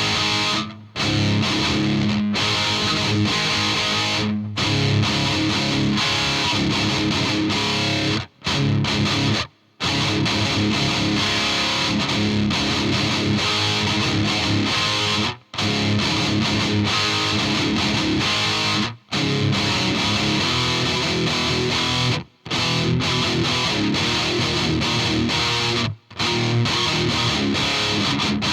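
Distorted electric guitar played through a UAD Volt 276 interface with its 76 compressor and Vintage mode engaged, a setting the uploader says causes popping artifacts. The playing stops abruptly for a fraction of a second about eight times, then comes straight back in.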